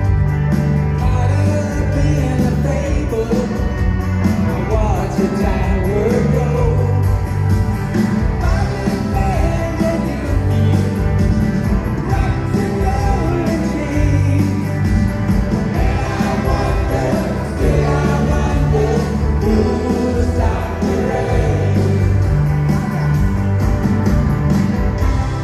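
Live rock band playing a song, with a male lead vocal singing over guitar and bass.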